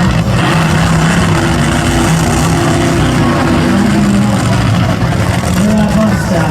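Monster truck engine running hard, its pitch rising and falling as the driver works the throttle.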